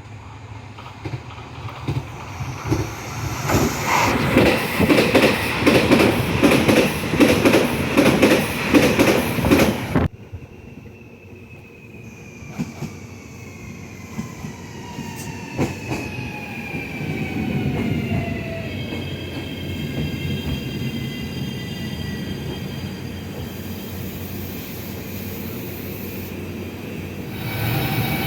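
A train passing at speed, its wheels clattering over the rail joints in a loud, rapid rhythm that cuts off suddenly. Then a train running more quietly with a high whine that falls in pitch and then holds steady.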